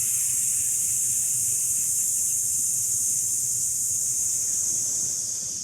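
A long, steady "sssss" hiss breathed out through the teeth: the lung sound of the Taoist Six Healing Sounds, made as one slow exhalation. It tails off near the end.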